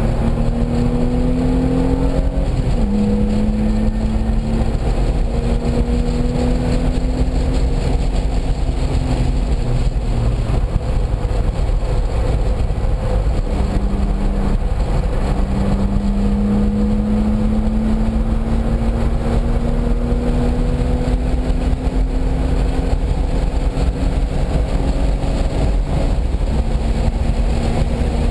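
Car engine pulling hard on a race track, its pitch climbing slowly. The pitch drops suddenly about three seconds in, as at a gear shift, and eases briefly around fifteen seconds before climbing again. Heavy steady road and wind noise runs under it.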